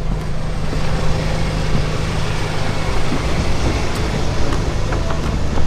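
Car running steadily: a low engine hum under an even hiss of road and wind noise.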